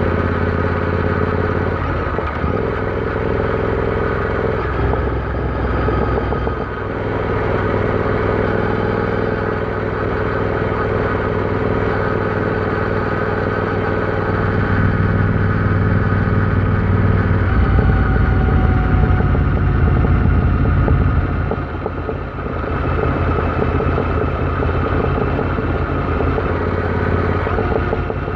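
Royal Enfield Interceptor 650's parallel-twin engine running under way on the road. The engine note shifts several times with throttle and gears; it gets louder and deeper for a few seconds past the middle, then drops briefly.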